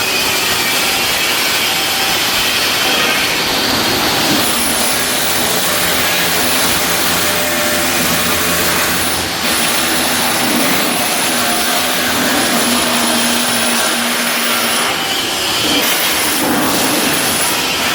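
Loud, continuous rushing noise of shipyard steelwork on a hull under construction, with a steady hum and a thin high whine through most of it.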